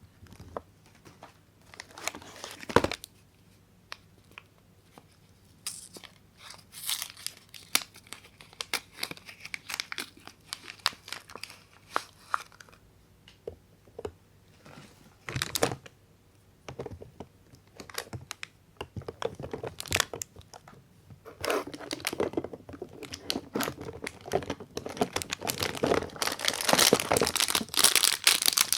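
Soap bar wrappers being torn open and crinkled by hand: scattered crackles and ticks, turning into dense, continuous crinkling for the last several seconds.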